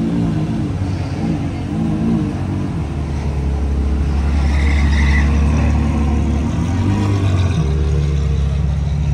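Car engine revving in a few quick rises and falls, then running at a steady low drone, with one more short rev and a shift in pitch near the end.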